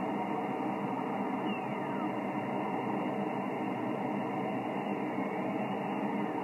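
Yaesu FT-1000MP HF transceiver receiving single-sideband on the 20 m band with no station transmitting: a steady hiss of band noise through the receiver's narrow voice filter. A couple of faint whistles slide in pitch through it, the heterodyne tones of nearby carriers.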